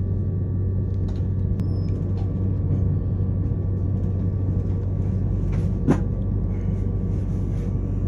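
Inside the carriage of an electric passenger train running slowly into a station: a steady low rumble and hum with a faint steady whine, and one brief sharp knock about six seconds in.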